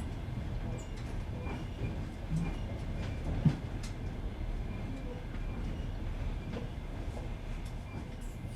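Passenger train carriage running over jointed rails: a steady rumble with scattered wheel clicks at the rail joints, and one sharp knock about three and a half seconds in.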